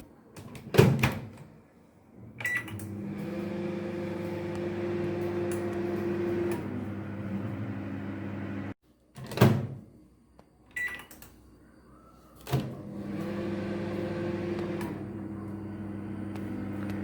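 LG MJ2886BWUM microwave oven: a door-like knock, a short keypad beep, then the oven running with a steady hum. The hum cuts off abruptly about nine seconds in, followed by more knocks and another beep, and then the oven hum starts again.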